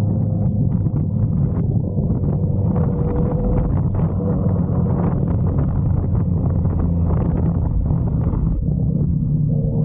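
Motorcycle engine and exhaust running at low, fairly steady revs while riding, with wind buffeting the microphone.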